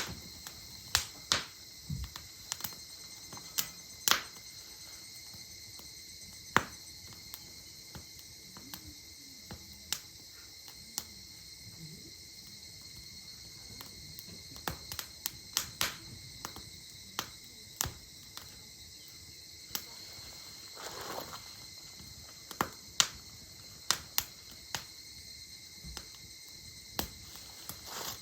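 Wood campfire crackling, with sharp irregular pops of burning firewood scattered throughout, over a steady high chirring of insects.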